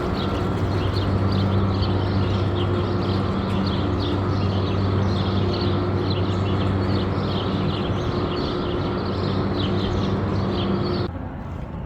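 Many small birds chirping over a steady low mechanical hum; both cut off suddenly about eleven seconds in.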